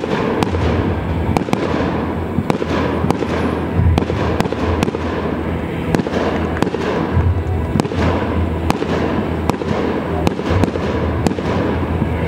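Fireworks display: aerial shells bursting in an irregular run of sharp bangs, roughly two a second, over a continuous din.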